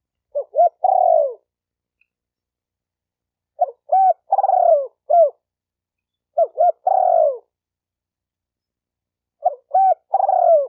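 Spotted dove cooing: a phrase about every three seconds, each a couple of short coos and a longer, falling coo, the last phrase starting near the end.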